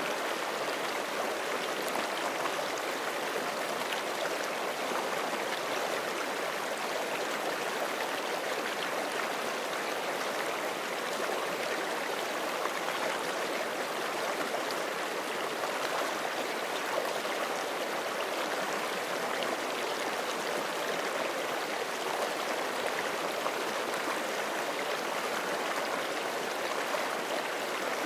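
Forest creek running over rocks: a steady rush of flowing water with fine splashing and gurgling, even in level throughout.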